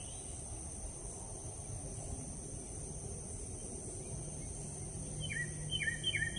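An unidentified bird calling near the end: a quick run of about four short notes, each a brief high note that drops sharply in pitch, over a steady high-pitched insect drone.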